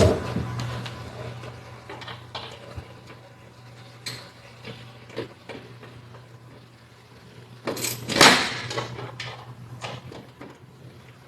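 Scattered clicks and knocks of hand tools and metal parts being handled while car seat screws are worked loose, with a louder scraping clatter about eight seconds in, over a steady low hum.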